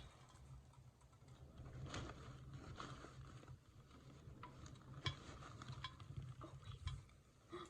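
Faint handling noises: scattered light taps, clicks and rustling as an open drink can is put away, over a low steady hum.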